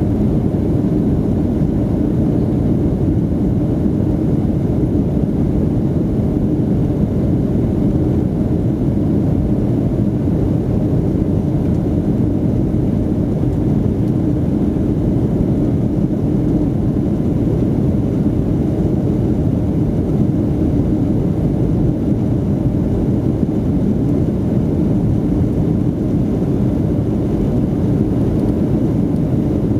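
Steady, loud engine and airflow rumble inside the cabin of a Boeing 757-200 in flight, unchanging throughout.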